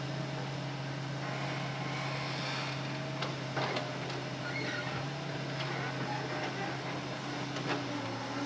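Hitachi Zaxis excavator's diesel engine running steadily with a low hum, with a few sharp knocks between about three and eight seconds in.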